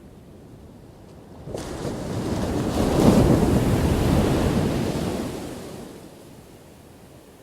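A single ocean wave crashing: it breaks suddenly about a second and a half in, is loudest around three seconds, then washes out and fades over the next few seconds to a low hiss of surf.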